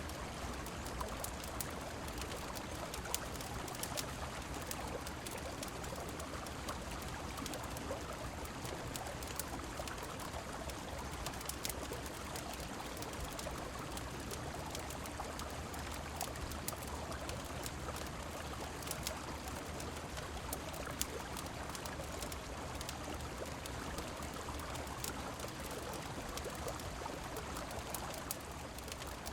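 Steady rushing of river water mixed with falling rain, with many small sharp clicks scattered through it.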